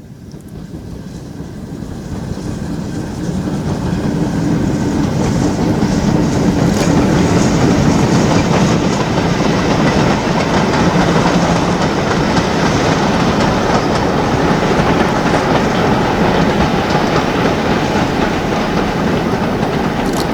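Steam-hauled train approaching and passing close by, growing louder over the first few seconds, then the coach wheels clattering over the rail joints.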